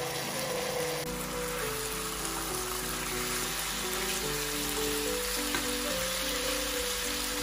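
Chicken pieces and onion sizzling in oil in a non-stick frying pan, stirred now and then with a wooden spatula, under background music of slow, held melodic notes.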